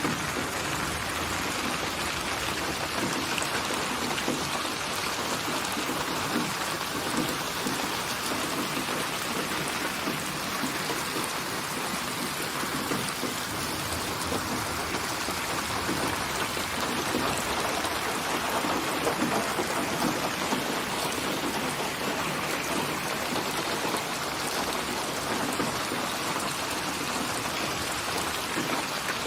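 Steady rain falling, an even wash of drops that holds level throughout without a break.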